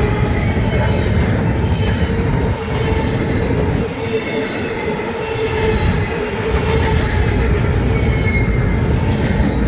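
A train rolling past at close range: a steady, loud rumble of wheels on rail with a faint high wheel squeal, easing a little midway.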